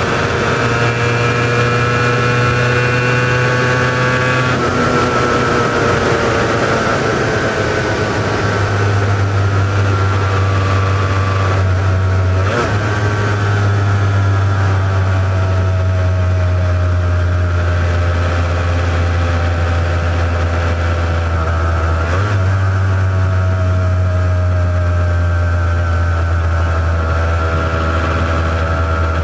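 Honda NS400R three-cylinder two-stroke engine running on a ride through its original mufflers. The pitch slowly rises and falls, with brief breaks where the pitch steps, like gear changes, about 4, 12 and 22 seconds in.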